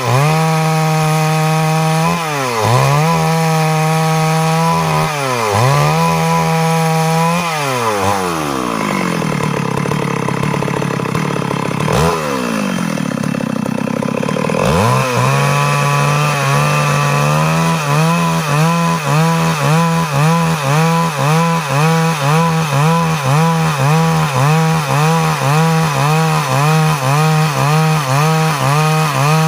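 Stihl MS 382 two-stroke chainsaw sawing wood at high revs. The engine note dips and recovers three times early on, runs lower for a few seconds in the middle, then from about two-thirds in rises and falls about twice a second as the saw loads and unloads in the cut.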